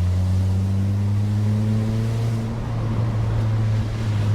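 Car engine droning, heard from inside the cabin, its pitch rising slightly after about a second, over a steady hiss of road noise.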